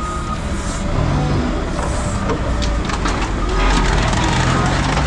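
A heavy diesel engine running steadily, with scattered metallic clanks.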